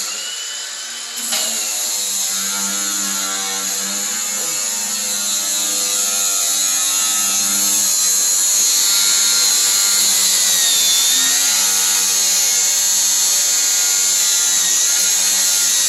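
Cordless grinder running continuously from about a second in, a steady motor whine with a high grinding hiss, as it grinds the heads off the old bolts that held the truck bed's floor. Its pitch sags briefly around ten seconds in as it bears down on the metal.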